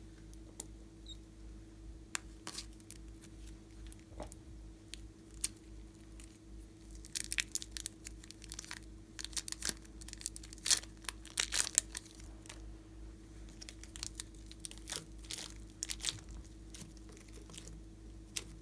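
Slime being pressed and worked by hand, giving short crackling and popping clicks that thicken into a dense run in the middle, over a steady low electrical hum.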